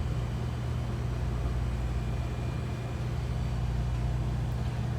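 Half-horse refrigeration condensing unit of a T-49 two-door reach-in refrigerator running with a steady low hum, its compressor cranking as it pulls the box down to about 42 degrees.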